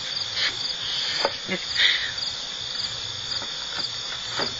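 Insects chirping in a steady high trill that pulses about two or three times a second, with a few faint knocks and one brief louder noise about two seconds in.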